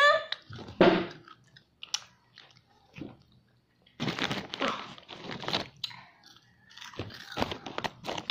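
Crunchy food being bitten and chewed close to the phone's microphone, in bursts: a short one about a second in, then longer crunching through the second half.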